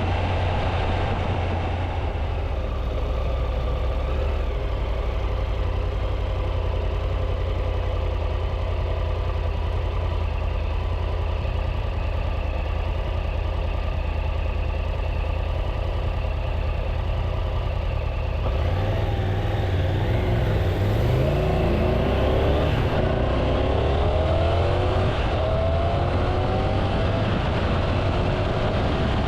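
Triumph Tiger 800's three-cylinder engine running at a steady cruise under a heavy low rumble. About two-thirds of the way through it accelerates, its pitch rising over several seconds.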